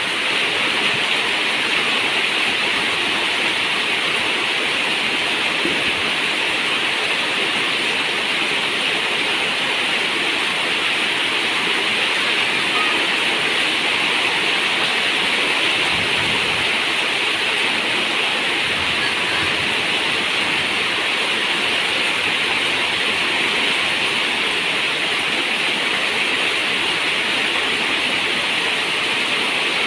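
Steady heavy rain drumming on a zinc roof, an even, unbroken hiss of water.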